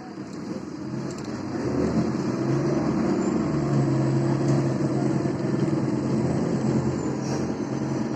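MAZ-203 city bus engine running under load as the bus drives, heard from inside the passenger cabin. It gets louder over the first two seconds, then holds a steady drone.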